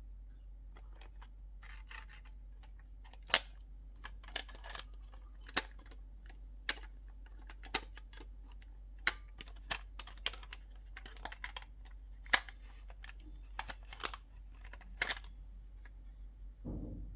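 Small pieces of a miniature toy cooking playset being handled: a run of sharp, irregular clicks and taps, with a softer thump near the end.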